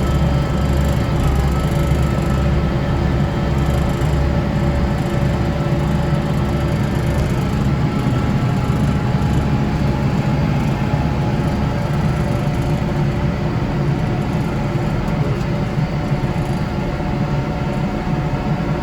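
Kubota tractor's diesel engine and front-mounted snow blower running steadily under load, a constant low drone with an even hum.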